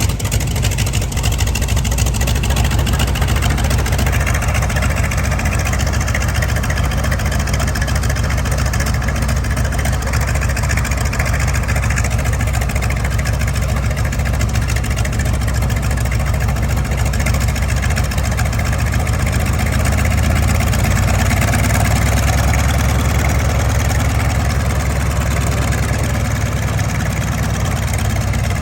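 Piston airplane engine and propeller running steadily at low power, as at idle or slow taxi, growing a little louder about two-thirds of the way through.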